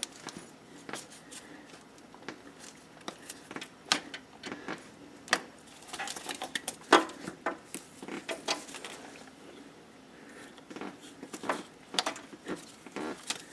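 Irregular metallic clicks, clanks and knocks from hands and tools working the serpentine belt tensioner back to slip the belt over the harmonic balancer pulley, with one louder knock about halfway through.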